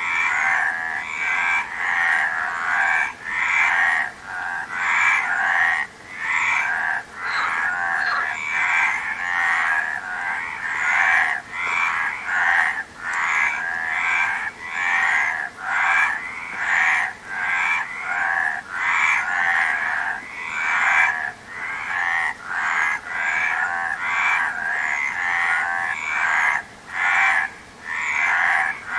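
Frogs croaking, one call following another in quick succession, about two a second, with no let-up.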